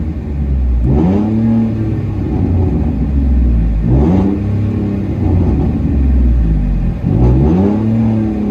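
Ford F-150 V6 with straight-piped true dual exhaust, no mufflers or resonator, revved three times, each rev rising quickly and then falling back, very loud, heard from inside the cab.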